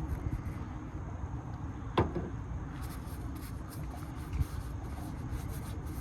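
A single sharp click about two seconds in and a fainter knock a couple of seconds later, from handling the plastic oil filter cap and new filter element of a DD15 diesel. Both sit over a steady low background rumble.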